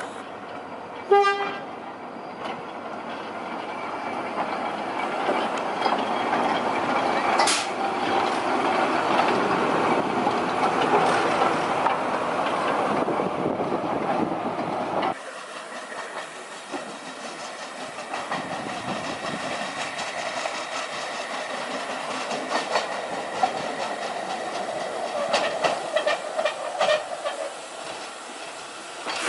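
Heritage railway train running on the track, its sound building up, with a short toot about a second in. About halfway the sound cuts off suddenly and another stretch of train running follows, with some rail clicks near the end.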